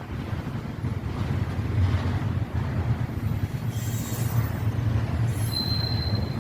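Intermodal freight train cars rolling past with a steady low rumble. Brief high screeches from the wheels come about four and five seconds in, and a short thin wheel squeal comes near the end.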